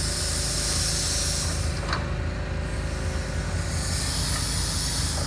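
Steam locomotive standing with a steady low rumble and loud hissing steam. The hiss dies away about two seconds in and starts again near the end.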